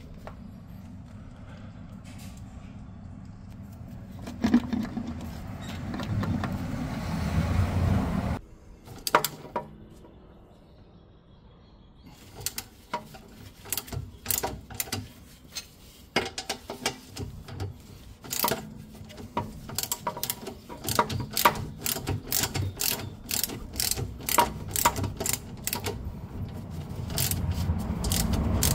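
A low rumble for the first several seconds, then a hand ratchet wrench clicking in quick strokes, in short runs separated by brief pauses, about halfway in and through the rest.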